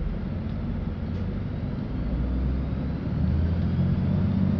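Cabin noise of a LiAZ-5292.65 city bus under way: a steady low engine and road rumble that grows louder about three seconds in.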